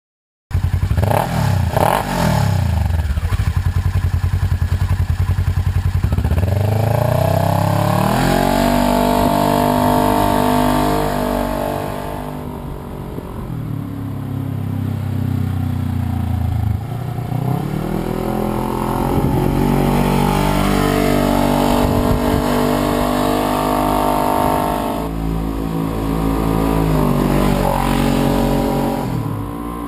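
Polaris RZR XP900's twin-cylinder engine running through a Vance & Hines DragonFire dual exhaust, loud, revving up and easing off as it is driven. It starts abruptly half a second in, climbs in pitch about six seconds in, drops back around twelve seconds, climbs again near eighteen seconds and falls away near the end.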